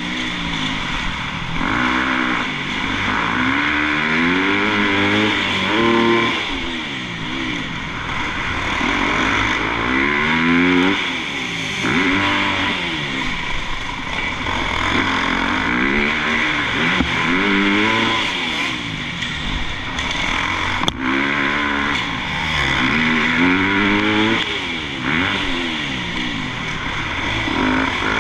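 Motocross dirt bike engine revving hard and backing off over and over, its pitch climbing and dropping every second or two as the bike accelerates out of turns and over jumps around the track.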